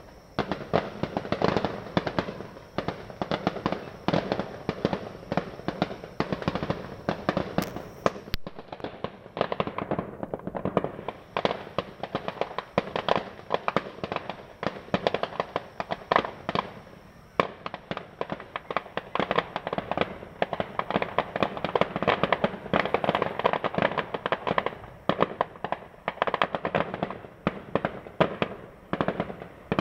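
Many fireworks going off at once: a dense, unbroken run of bangs and pops.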